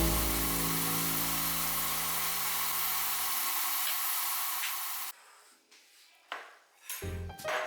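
Food frying in a pan: a steady oil sizzle that cuts off abruptly about five seconds in. Piano music comes in near the end.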